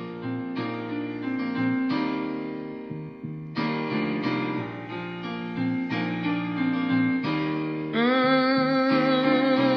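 Slow piano or electric keyboard intro playing a sequence of struck chords. About eight seconds in, a louder held note with vibrato comes in over the chords.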